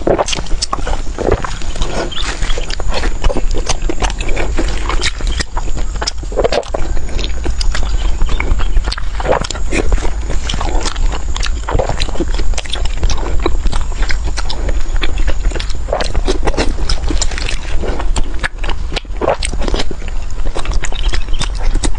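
Close-miked eating sounds: irregular wet chewing, smacking and clicking of the mouth, going on without a break, over a low steady hum.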